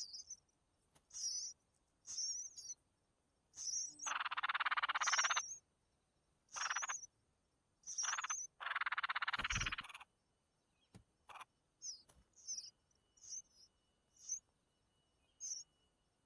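Birds calling: short high chirps repeated about once a second, with two longer harsh, rasping calls about four and eight seconds in.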